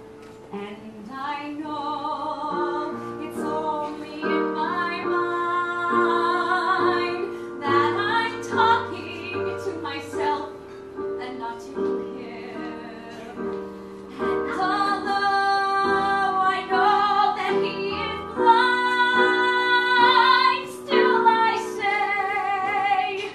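A woman singing a slow, sustained melody with vibrato over instrumental accompaniment.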